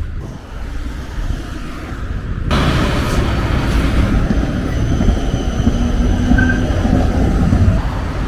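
Tram running on its rails: a steady low rumble that gets abruptly louder about two and a half seconds in, with faint thin whining tones above it.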